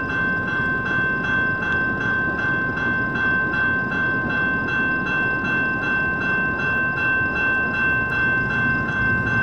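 A CN mixed intermodal freight train rolling past with a steady rumble from its cars. Over it a railroad crossing bell rings continuously in quick, even strokes, about two to three a second.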